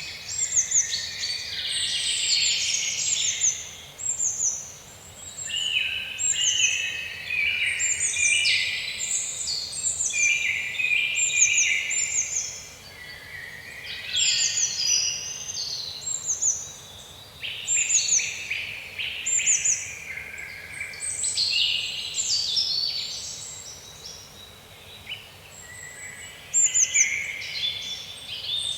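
Several songbirds singing and chirping in a woodland chorus, with quick high descending chirps and warbling phrases overlapping, in waves with short lulls, over a faint steady background hiss.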